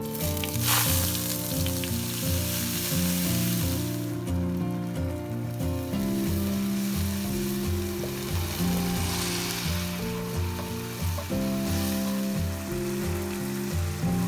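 Spice paste sizzling and frying in hot oil in a wok as it is stirred with a spatula; the sizzle flares up sharply about a second in, and again briefly around the middle. Background music plays underneath.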